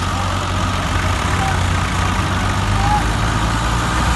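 Tractor diesel engines running steadily at high revs under load as two tractors pull against each other in a tug-of-war, with crowd voices in the background.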